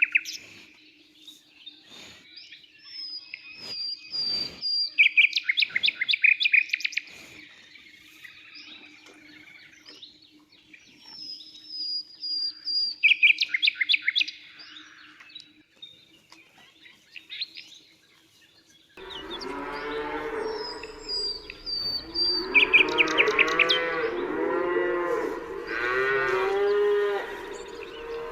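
Small birds chirping and trilling, then, about two-thirds of the way through, cattle mooing: several overlapping low calls that go on to the end, with the birds still chirping over them.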